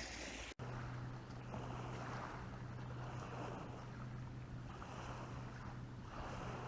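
Lake water lapping in soft swells every second or two, over a steady low hum and some wind on the microphone. The sound cuts out briefly about half a second in.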